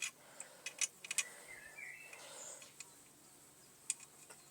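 Sparse light clicks and taps of small parts being handled on a Mamod toy steam engine as its boiler is topped up, bunched in the first second, with a faint, brief warbling tone a little before halfway.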